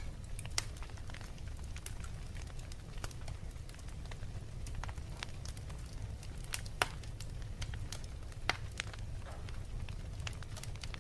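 Wood fire in a fireplace crackling, with irregular sharp pops and snaps over a steady low rumble. The loudest pops come about half a second in, near seven seconds and at eight and a half seconds.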